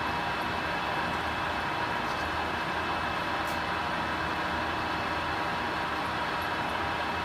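Summit engine lathe running steadily under its 20 hp main drive motor: a constant machine hum with a few steady whining tones through it.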